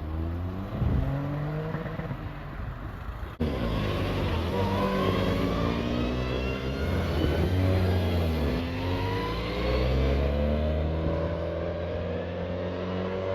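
Car engines revving and accelerating, their pitch gliding up and down. About three and a half seconds in the sound cuts abruptly to a louder engine.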